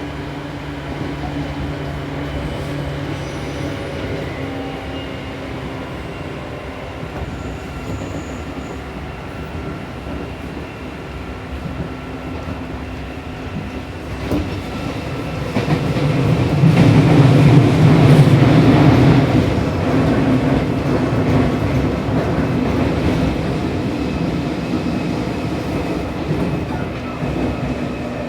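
Seibu New 2000 series electric train running at speed, heard from inside the car: a steady motor hum over wheel-and-rail rumble, with clatter from a stretch of points and curves. About halfway through the rumble swells sharply louder for a few seconds, then eases back.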